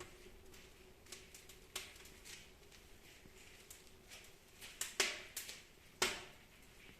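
Fire crackling in a fireplace: scattered sharp pops at irregular intervals, the two loudest about five and six seconds in.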